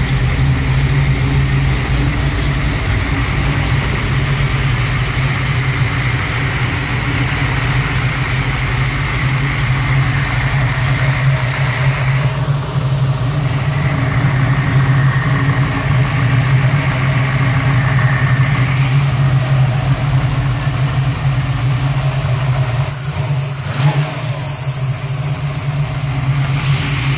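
A 1980 Buick Regal's forged 383 V8 with FAST EZ-EFI fuel injection idles steadily through a Pypes exhaust with Street Pro mufflers, giving a steady low exhaust note.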